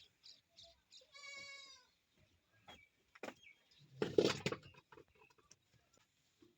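A goat bleats once, a single wavering call about a second in. A few seconds later comes a short, loud noisy burst, the loudest sound, with faint clicks and knocks around it.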